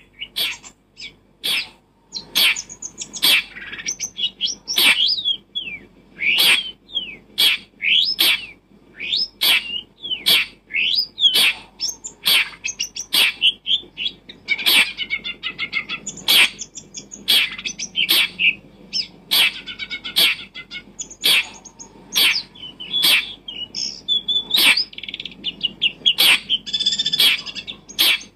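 A bird chirping and calling continuously, with short sharp calls about once or twice a second and warbling chirps in between.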